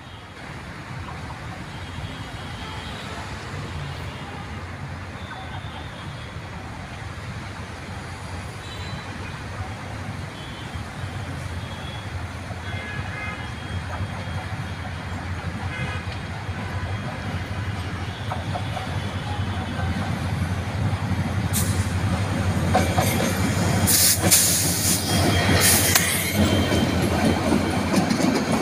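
Diesel-hauled passenger train approaching and passing close by: a low engine rumble grows steadily louder, then from about twenty seconds in comes the clatter of wheels over the rail joints as the locomotive and coaches go past.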